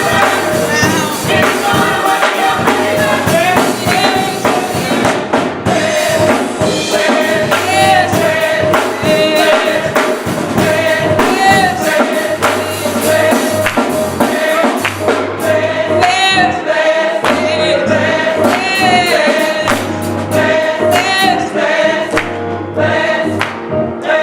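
Youth gospel choir singing a lively song with band accompaniment, percussion keeping a steady beat.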